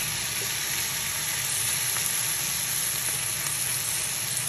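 Shrimp, cherry tomatoes and parsley in tomato sauce sizzling steadily in a hot nonstick frying pan, with faint scrapes of a spatula stirring them.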